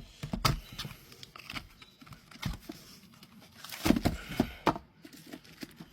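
Packaging crinkling and small parts clicking as engine rebuild kit parts are handled, in scattered short rustles and clacks with a louder cluster about four seconds in.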